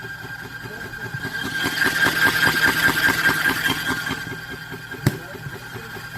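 A motor running with an even, rapid pulse and a steady whine. It grows louder about a second and a half in, then eases off, with one sharp click about five seconds in.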